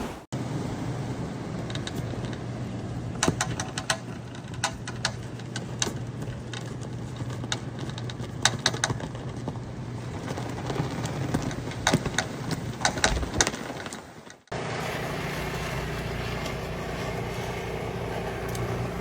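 Car running with a steady low hum, with scattered sharp clicks and taps over most of the stretch. About fourteen and a half seconds in it cuts to another steady engine hum.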